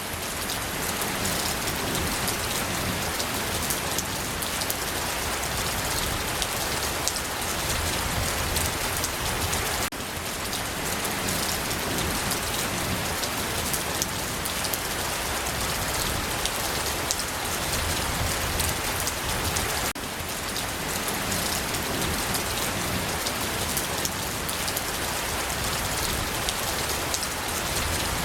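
Steady rain falling, with many small drops pattering on a surface. The level dips briefly about every ten seconds.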